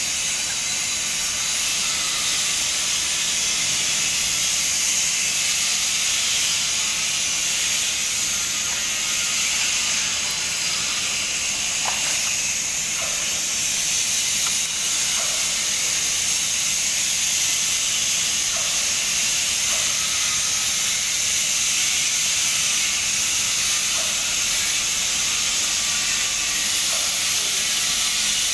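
Electric arc welding: the arc hisses steadily, with small crackles and pops scattered through it.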